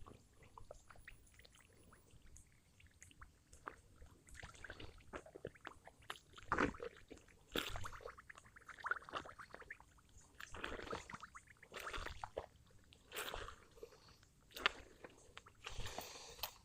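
Footsteps wading through a flooded, muddy rice paddy: irregular sloshing splashes of water and mud, one after another.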